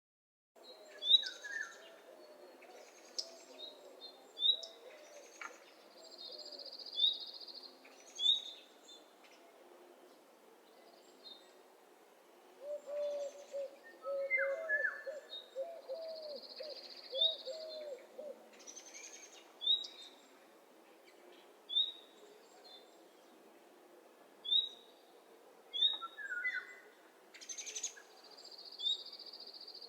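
Birds calling in a natural soundscape: short high chirps repeated every second or two, a few buzzy high trills a couple of seconds long, and two runs of low, wavering hooting notes, one near the start and one in the middle.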